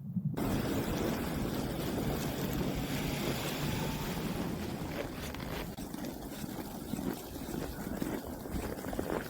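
Steady rushing outdoor noise of wind and low vehicle rumble from snow-covered streets, changing in character at an edit about six seconds in.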